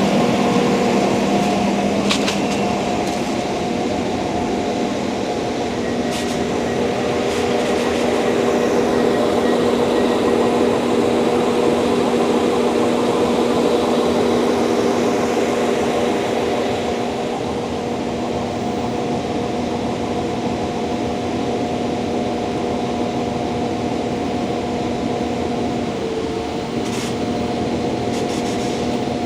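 Diesel multiple unit train's engine running steadily at the platform, a humming drone with a pitch that steps up slightly about five seconds in.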